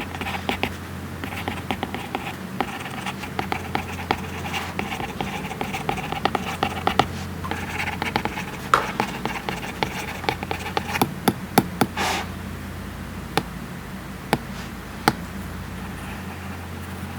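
A stylus writing on an iPad screen with a matte paper-like protector: quick scratchy strokes and tip taps, dense at first, then thinning to scattered single taps about halfway through.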